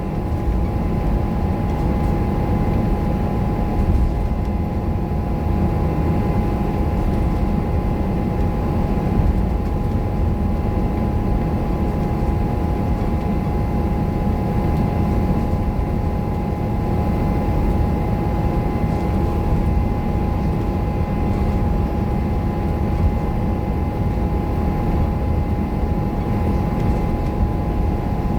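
Scania K230UB single-decker bus's five-cylinder diesel engine running under way, a steady low rumble with a steady high-pitched whine over it throughout.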